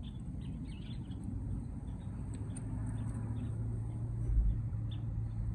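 Small birds chirping in the background over a steady low hum, with a dull thump about four seconds in.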